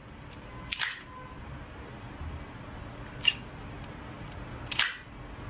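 Faint room noise with a few short sharp clicks or taps, about a second in, near the middle and near the end.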